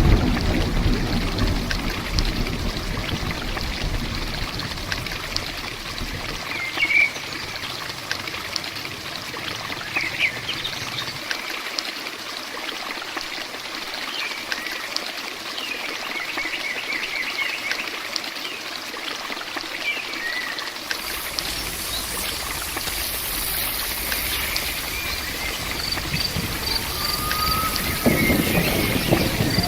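Steady heavy rain pattering and trickling, with a few short bird chirps now and then.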